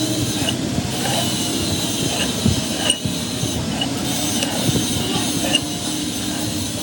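A machine running steadily, with a thin metallic whine and scattered light clinks.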